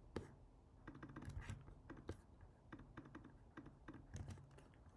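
Faint computer keyboard typing: irregular keystrokes, some in quick little runs, with short pauses between them.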